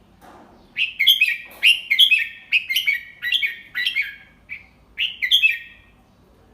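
Red-whiskered bulbul singing one phrase of quick, chattering whistled notes. It starts about a second in and stops near the end. This is the slow, clear 'double-three' song type taught to young bulbuls.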